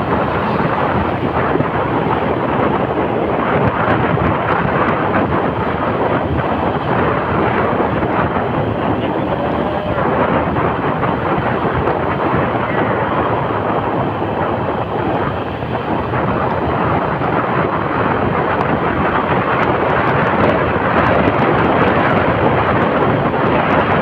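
Steady rush of wind and road noise on the microphone while riding on a moving motorcycle taxi, with no clear engine note.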